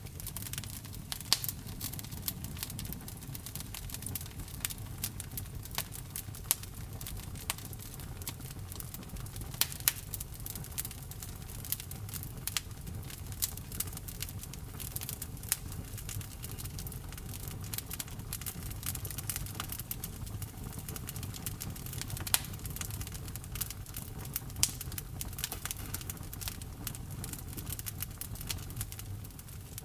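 Wood fire in a fireplace crackling steadily over a low rumble, with irregular sharp pops from the burning logs.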